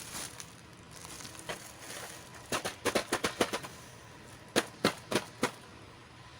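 Small plastic miniature toy pieces clicking and tapping as they are handled: a soft rustle near the start, a quick run of clicks in the middle, then four evenly spaced clicks near the end.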